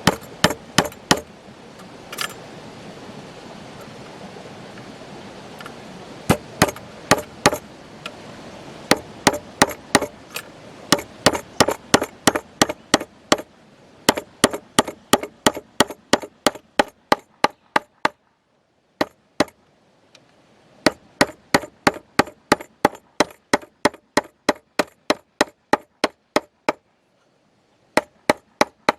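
Steady blows of a hand tool striking wood, about two a second in runs broken by short pauses, as a wooden structure is built.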